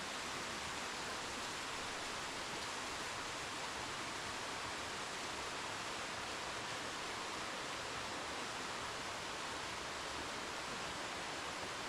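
Rushing water of a large waterfall cascade, a steady even hiss with no breaks.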